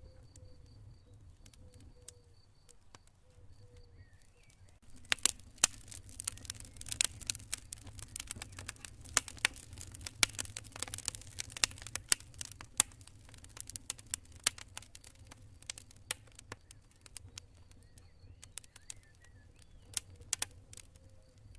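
Campfire crackling with sharp pops and snaps, thickest from about five seconds in until about thirteen, then thinner, over a steady low rumble. A cricket chirps faintly and steadily at the start and again near the end.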